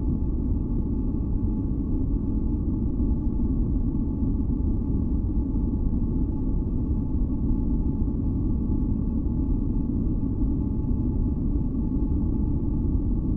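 Steady, deep masking noise of a relaxation 'white noise' track, mostly low in pitch, with a few faint held tones above it and no change in level.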